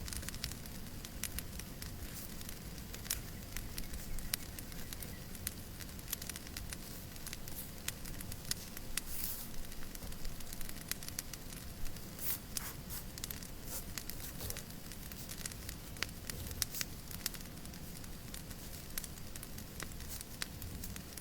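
Wood fire crackling in a fireplace: irregular sharp pops and snaps, several a second, over a steady low rush.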